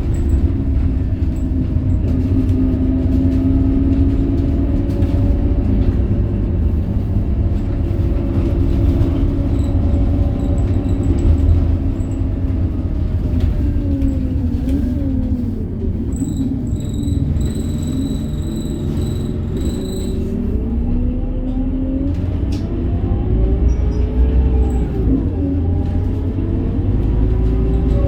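Scania DC9 diesel engine of a city bus with a ZF Ecomat automatic gearbox, heard on board: it runs steadily, drops in pitch as the bus slows about halfway through, then rises again as it pulls away. A run of short, high electronic beeps sounds for a few seconds while the engine is low.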